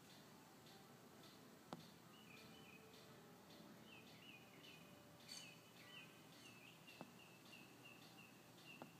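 Near silence with a faint bird chirping in a quick, even series of short high notes, about three a second, starting about two seconds in. A few soft clicks are heard.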